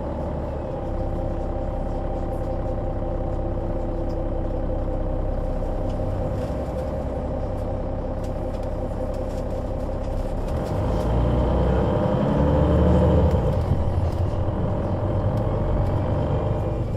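Diesel engine of a 2005 Solaris Urbino 12 III city bus with Voith automatic gearbox, running steadily at low revs. About ten seconds in it gets louder and the revs climb over a couple of seconds as the bus pulls away, and a faint high whine joins in.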